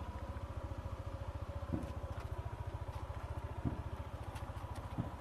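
Engine idling with a steady, fast low putter, and a dull thump about every two seconds.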